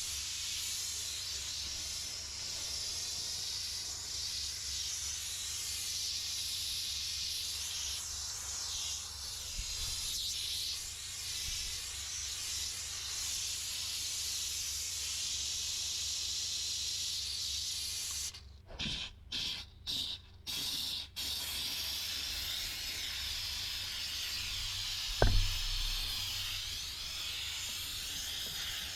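Steam cleaner blowing a steady hiss of steam. About two-thirds of the way through, the steam cuts off and back on four times in quick succession. A few seconds later comes a single loud thump.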